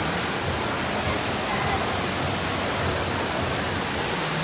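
Loud, steady rushing noise that drowns out a faint voice.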